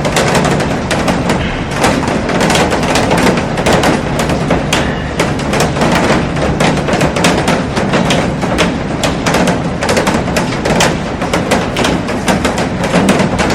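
Heavy rain falling on a glass roof and garden: a loud, steady hiss packed with sharp drop impacts on the glass.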